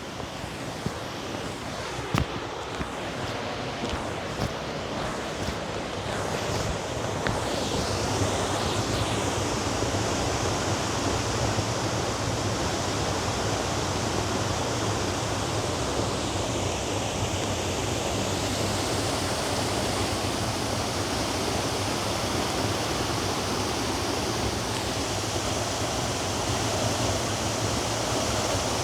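Steady rushing noise that builds over the first several seconds and then holds, with a few light ticks early on.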